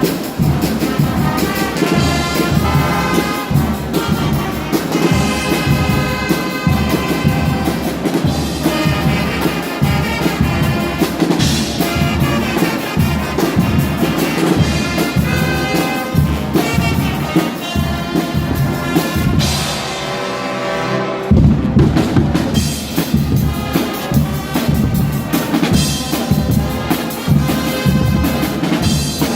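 Guggenmusik band playing: loud brass over a steady pounding drum beat. About twenty seconds in the drums drop out for a moment under held brass, then the full band comes back in louder.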